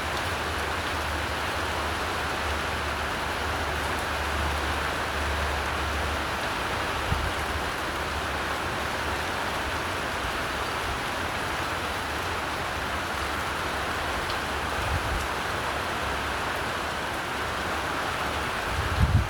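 Steady rain, an even hiss with no let-up, with low rumbles underneath that grow stronger near the end.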